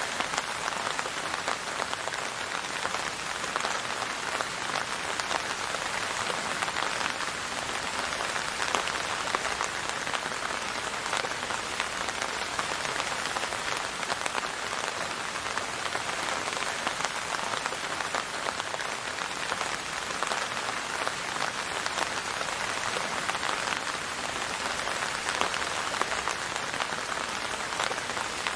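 Steady rain falling on a surface, a dense patter of drops with no thunder.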